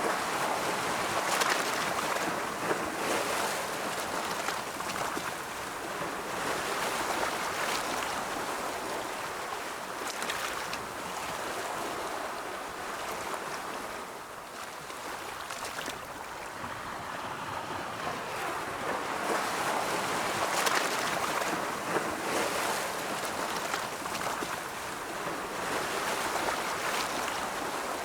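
Ocean surf: waves breaking and washing in a continuous hiss that swells and ebbs. It is louder just after the start and again about two-thirds of the way through, and quieter around the middle.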